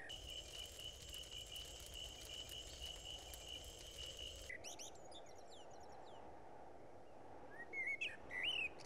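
Quiet night ambience of crickets trilling in one steady high tone. About four and a half seconds in it cuts off and birds start chirping, with a few louder calls near the end.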